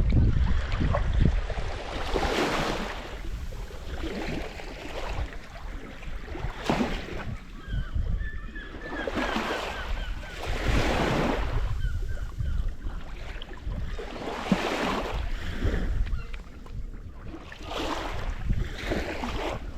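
Small waves washing in and out at the water's edge, swelling every few seconds, with wind rumbling on the microphone.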